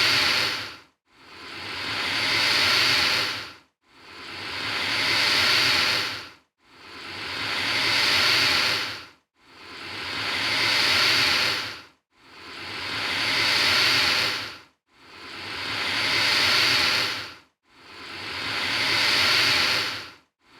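Alligator hissing: a loud breathy hiss that swells over about two seconds and cuts off abruptly, repeated the same way about every two and a half seconds, seven times over.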